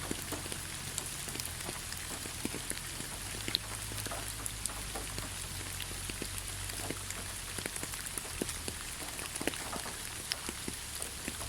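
Rain falling on leaves: a steady hiss with many separate drops tapping at irregular moments.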